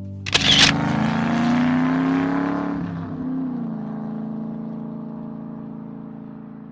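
A classic car engine catching with a sudden burst, revving up in pitch, then dropping back to a steady idle that fades away.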